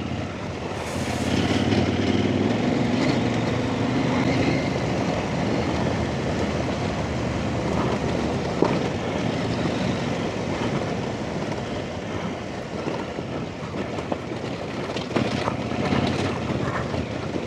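Dirt bike engine running as it is ridden along a rough, wet trail, with rushing wind noise and scattered knocks from the bike over the ground. The engine note is clearest in the first few seconds, and the knocks come mostly near the end.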